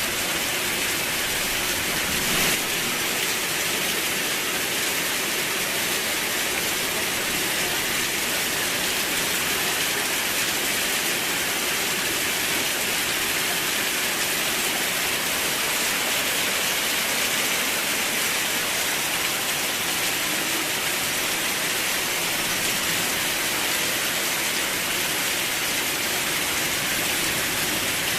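Steady rain falling, an even hiss with no let-up, with one brief louder crack about two and a half seconds in.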